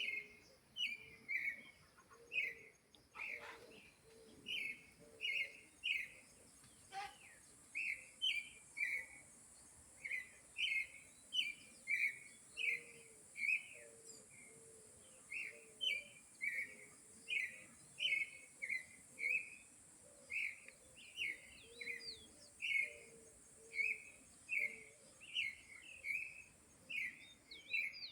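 Sabiá thrush singing: a long, steady run of short whistled notes, about two a second, over a faint steady high hiss that cuts off near the end.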